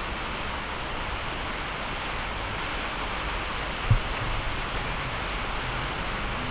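Steady pouring rain, an even hiss of falling water, with a single low thump about four seconds in.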